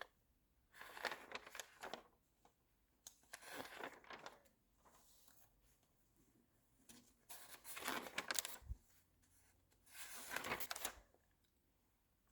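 Magazine pages being turned, four separate papery rustles a few seconds apart with quiet between them.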